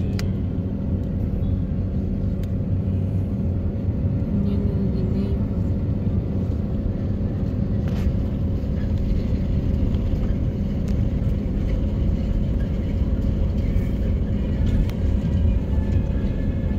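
Vehicle engine running at low speed in slow traffic, a steady low rumble with no change in pitch.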